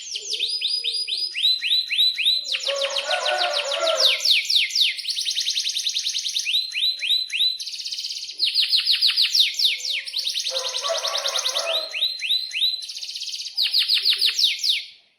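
Domestic canary in full song, singing long rolling trills. Each phrase is a fast run of quick, downward-sweeping notes, and the bird switches to a new phrase every second or two. The song cuts off abruptly just before the end.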